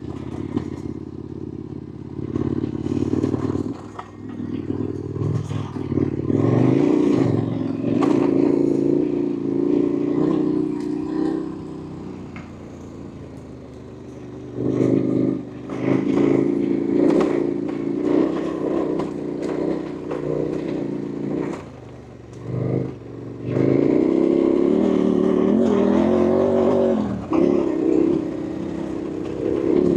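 KTM 1290 Super Adventure R's V-twin engine running hard, its pitch rising and dropping back again and again as it revs up and eases off, with many short clattering knocks. Loudest between about six and eleven seconds in and again from about twenty-four seconds.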